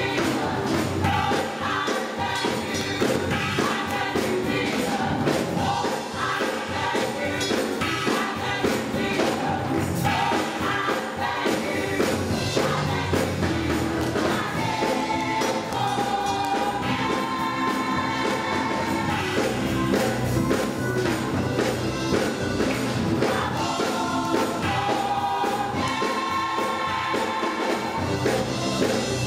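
Gospel choir singing with band accompaniment and a steady beat, the voices holding long sustained notes in several parts.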